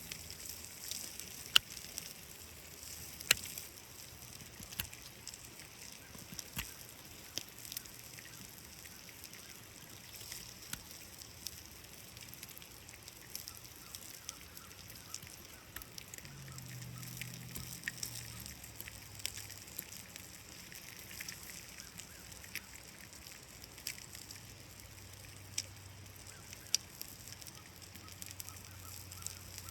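Food frying in a cast iron skillet over a campfire: a steady sizzle with sharp pops and crackles scattered throughout, the loudest in the first few seconds.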